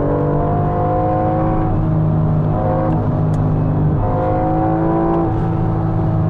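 BMW M4 Competition's 3.0-litre twin-turbo straight-six engine pulling at track speed, heard from inside the cabin. Its pitch climbs slowly and is broken by short dips a few times.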